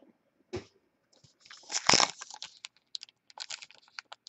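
Trading cards and their packaging being handled: irregular rustles and clicks, loudest about two seconds in.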